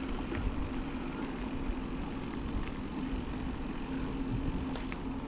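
Wind buffeting the microphone and tyre rumble while riding an e-bike at speed, with a steady hum underneath.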